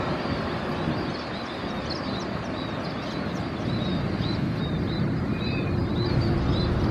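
Jet airliner engine noise, a steady rumble that grows louder about halfway through, with small birds chirping over it in quick, repeated short calls.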